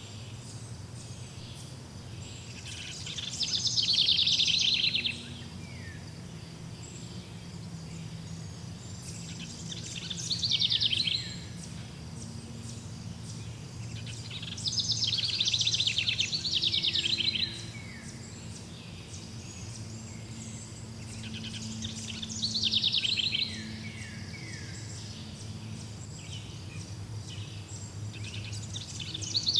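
A songbird singing in repeated bursts of rapid trilled notes, each burst a second or two long and returning every six or seven seconds, over a steady low hum.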